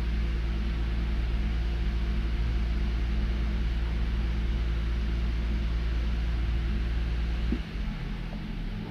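Toyota Avalon engine idling with a steady low hum; the intermittent misfire is not showing at this moment. About three-quarters of the way through, a click comes and the lowest part of the hum drops away, so it turns quieter.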